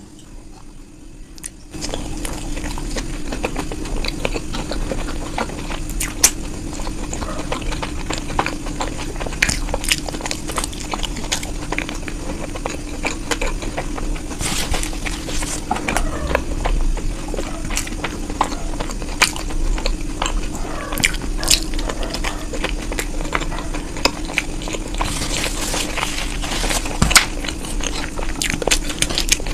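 A person eating chowmein and momo fast: chewing and mouth sounds with many scattered small clicks, over a steady low hum.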